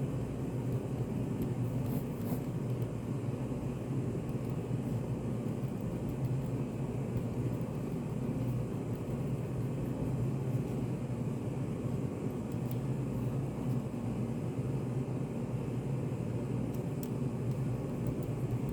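Study café ambience: a steady low hum of room noise, with a few faint small clicks now and then.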